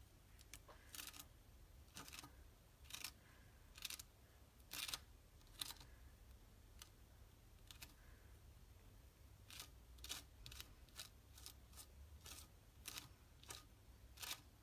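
Faint, short crisp strokes of a hand craft tool working paper, about one a second at first and coming quicker near the end.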